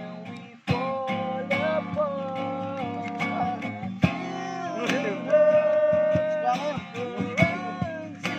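A voice singing held, sliding notes over a strummed acoustic guitar.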